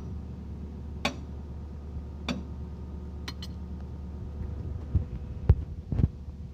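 Backhoe engine idling with a steady hum, while a hammer strikes metal in sharp blows about a second apart, as the attachment pin is driven home during the bucket-to-breaker swap. The blows come quicker and heavier near the end.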